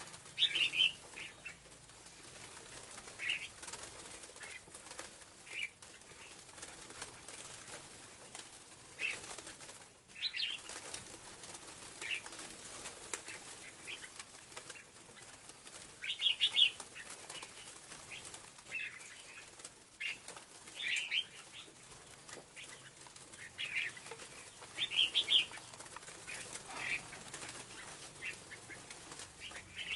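Scarlet-backed flowerpecker calling: short, sharp, high chirps repeated at irregular intervals, now singly, now in quick little clusters, over a steady faint hiss. It is a lure call used to attract the bird.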